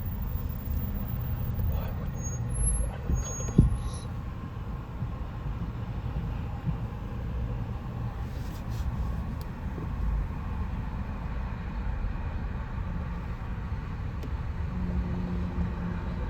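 Coal train on the move: a steady low rumble, with a single sharp knock about three and a half seconds in.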